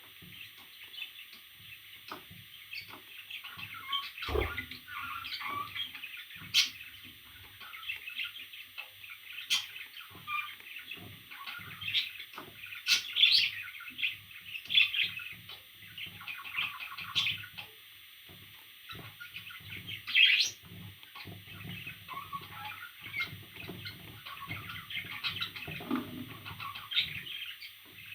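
Parrots chirping and chattering continuously, with several sharp, loud shrieks standing out, the loudest around the middle and about two-thirds of the way in. A dull thump about four seconds in.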